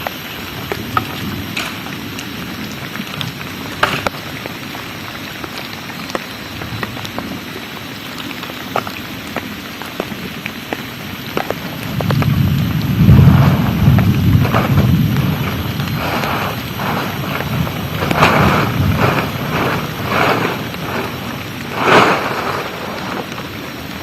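Heavy rain falling steadily with scattered drops ticking close by. About halfway through a low rumble of thunder rolls in, and the rain then comes in louder, uneven gusts of splashing.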